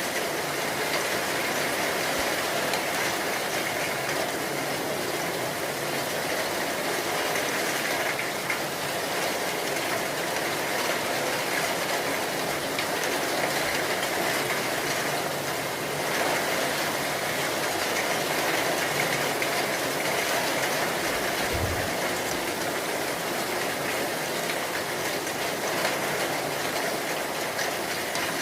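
Steady heavy rain falling, an even unbroken hiss, with a brief low thud about three quarters of the way through.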